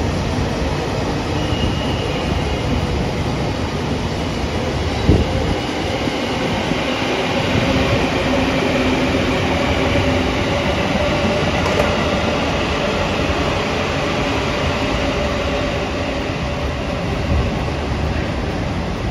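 A train running past on the rails, a steady rolling noise with a faint steady whine over it and a single short click about five seconds in.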